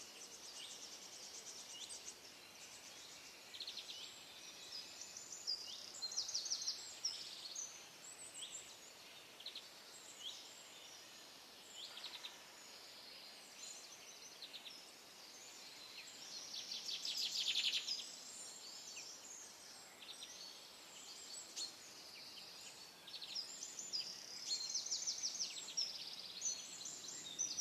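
Several small birds chirping and singing in overlapping high, rapid trills, with one louder trill about two-thirds of the way through, over a faint steady background hiss.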